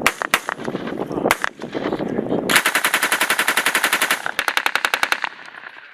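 Belt-fed machine-gun fire: a few separate shots in the first second and a half, then a long burst of fast, evenly spaced rounds lasting about a second and a half, followed at once by a shorter burst.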